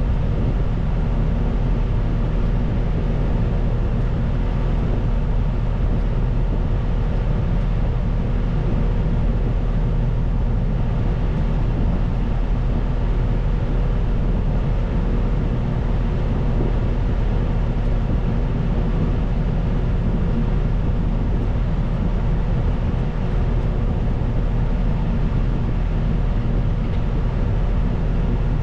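Caterpillar 926M wheel loader's diesel engine running steadily, with a low rumble and a constant hum over it.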